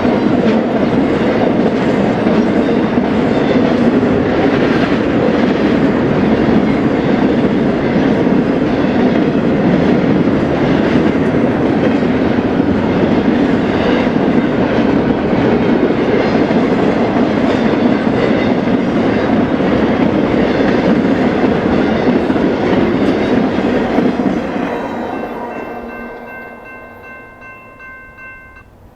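Freight train rolling past close by, its cars clattering over the rails, the noise fading away about 24 seconds in as the train passes. Near the end a steady high-pitched tone sounds for about three seconds, then cuts off.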